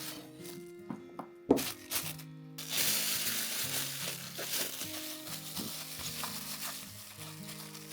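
Food sizzling as it fries in a pot, the hiss setting in strongly about three seconds in, after a sharp knock. Soft background music plays throughout.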